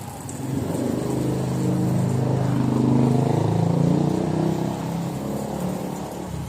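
A motor vehicle's engine running, getting louder over the first few seconds and then fading, as a vehicle passes or pulls in close.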